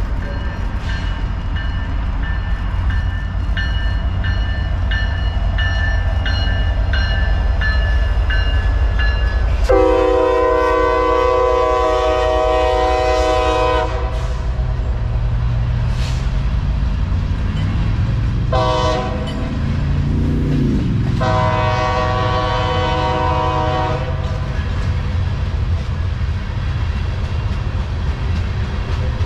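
Loaded crude oil tank train passing: the diesel rumble of its EMD SD70M-2 and GE ES44C4 locomotives fills the first ten seconds. Then the train's air horn sounds a long blast, a brief one and another long blast, while the tank cars roll by with a steady rumble of wheels on rail.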